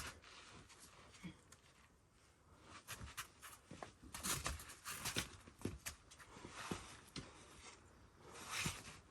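Faint, irregular scuffs and scrapes of a boulderer's shoes and hands on rock, with hissy bursts of hard breathing.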